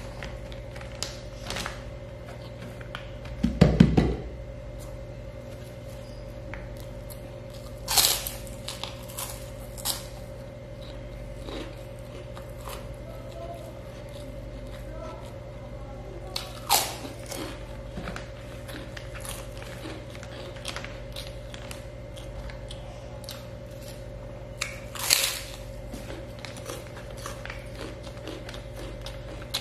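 Close-miked chewing and mouth sounds of a man eating rice with his hand, with scattered small clicks and a few louder sharp sounds, over a steady low hum. A louder low thump comes about four seconds in.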